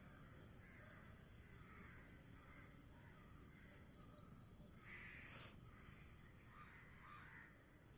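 Near silence with faint bird calls repeating now and then; the clearest comes about five seconds in.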